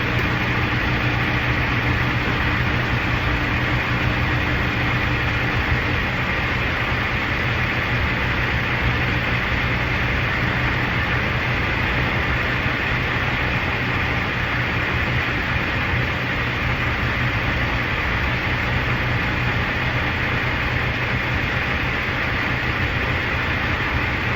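Steady vehicle noise with an even low hum, unchanging throughout.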